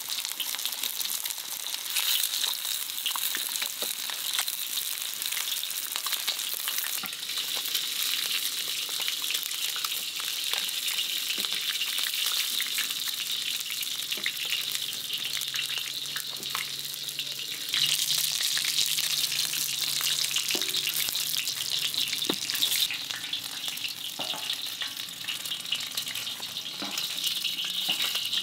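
Food frying in hot oil in a pan: a steady crackling sizzle, louder for a few seconds past the middle.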